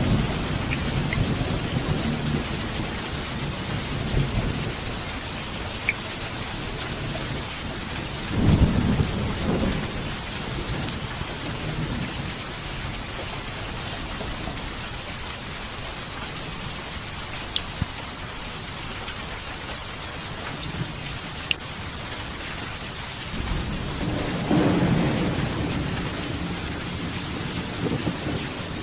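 Steady rain falling, with rolls of thunder rumbling low: one dying away as it begins, another about eight seconds in, and a longer one building and fading from about 24 seconds in.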